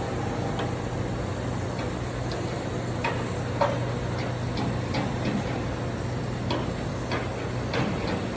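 A steady low machine hum, with scattered light clicks and ticks of hand work on equipment, irregularly spaced and a little louder about three and three and a half seconds in.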